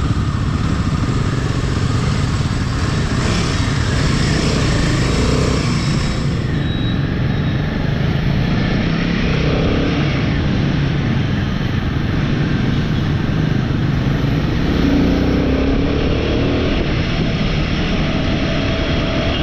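Royal Enfield motorcycle engine running steadily while riding along.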